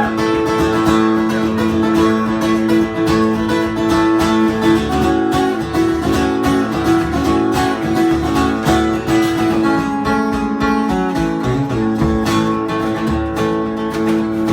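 Acoustic guitar strummed in a steady rhythm with picked notes over it, playing the instrumental introduction of a folk-rock song.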